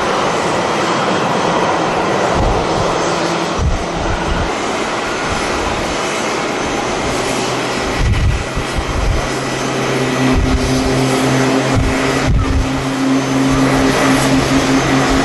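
Jet airliner engine noise, with a steady hum setting in about two-thirds of the way through. Strong gusty wind buffets the microphone.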